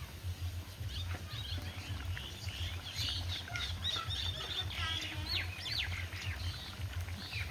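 Birds chirping, many short high calls and quick pitch sweeps coming thick from about a second in, over a steady low hum.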